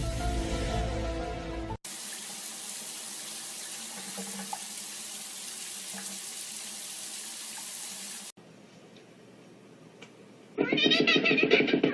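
A tap running steadily into a sink for about six seconds, then a cat meowing loudly near the end.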